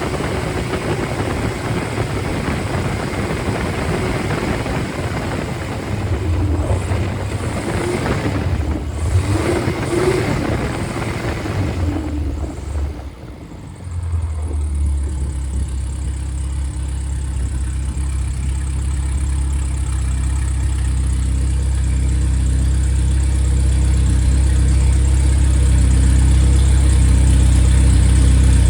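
Freshly rebuilt Triumph Spitfire / MG Midget 1500 four-cylinder engine running at raised revs. About thirteen seconds in, the revs drop, and it settles into a steady, even idle.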